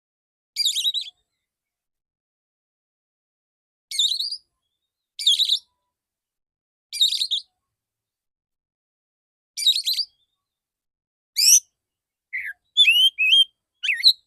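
Male oriental magpie-robin singing in short, high-pitched bursts of rapid whistled notes, each about half a second long, with gaps of one to two seconds between them. Near the end the bursts come closer together as a run of sweeping, rising and falling whistles.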